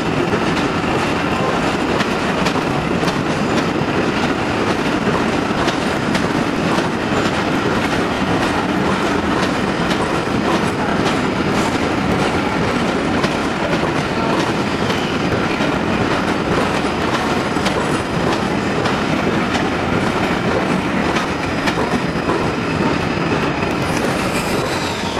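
Train running on the rails: a steady rumble with the clickety-clack of wheels passing over rail joints, easing slightly near the end.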